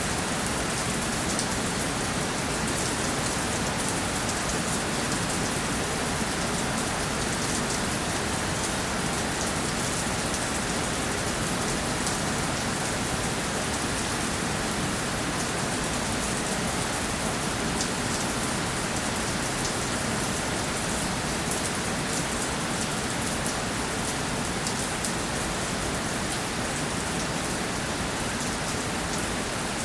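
Steady rainfall: dense, even hiss of rain falling on a surface, with individual drops ticking throughout.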